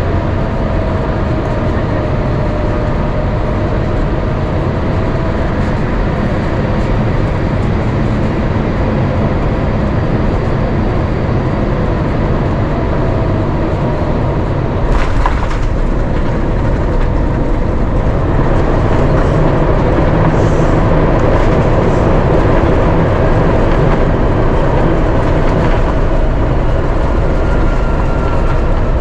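Airbus A350-900 cabin noise on the landing: a loud, steady rumble with the whine of its Rolls-Royce Trent XWB engines drifting in pitch. A single sharp knock comes about halfway through, and the noise swells a little a few seconds later.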